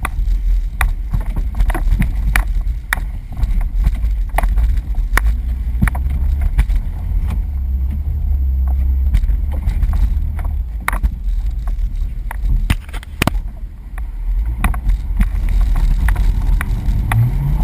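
Jeep crawling over a rough off-road trail: a steady low engine and drivetrain rumble with sharp knocks and clunks scattered throughout, and a brief rise in engine pitch near the end.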